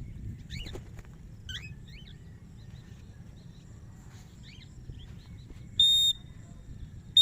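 Faint bird chirps, short rising-and-falling calls, a few times, then about six seconds in a single short, loud, steady high-pitched whistle.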